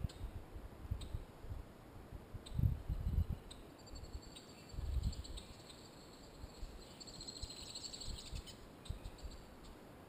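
A small bird singing a high, thin song that turns into a rapid trill near the end, over low rumbling bumps on the microphone.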